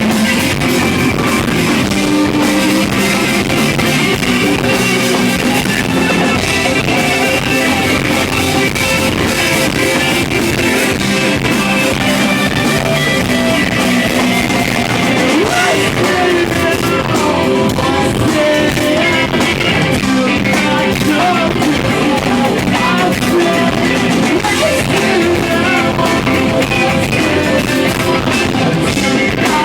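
A rock band playing live, with electric guitars and a drum kit and some singing.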